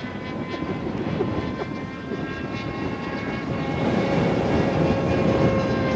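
Fuel-powered RC model airplane's engine droning steadily in flight. It grows a little louder about halfway through, with its tone sinking slightly.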